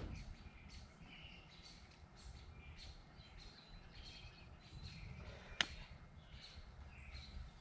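Small birds chirping and calling over a low rumble, with one sharp click a little past halfway through.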